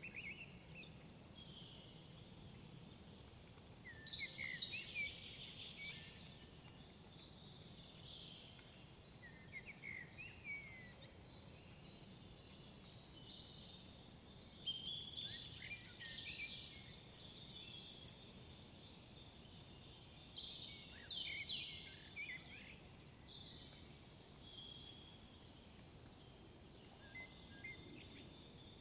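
Songbirds singing in woodland: a short, bright song phrase is repeated about every five to six seconds, each ending in a high trill, over a faint low background hiss.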